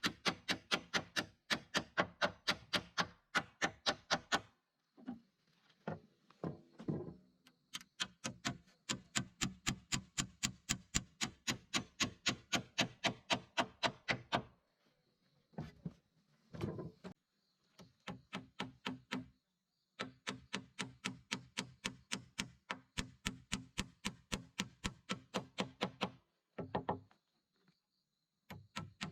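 A hand tool repeatedly striking wood: a steady run of hard knocks, several a second, in long runs broken by short pauses.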